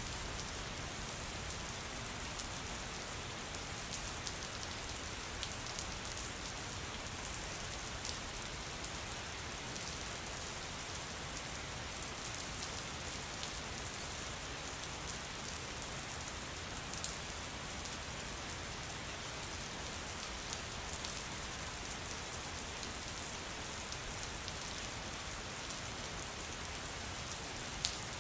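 Steady rain: an even, dense hiss of falling rain, with occasional sharper drip ticks standing out now and then.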